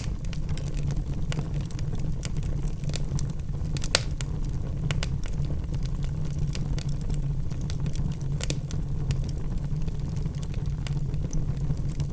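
Logs burning in a fireplace: a steady low rumble of the flames with frequent irregular crackles and pops, two of them sharper, about four seconds in and again past eight seconds.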